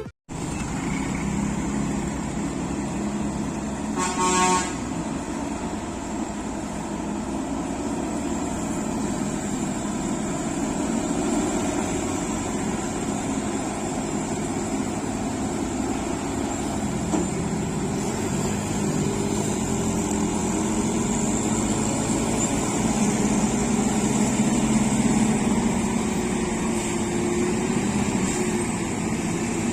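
Truck engines running with steady road-traffic noise, and a vehicle horn honking once, briefly, about four seconds in.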